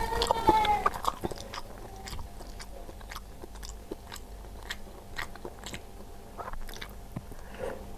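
Close-miked chewing of a mouthful of rice, with many small wet mouth clicks and smacks. A short falling hum sounds right at the start.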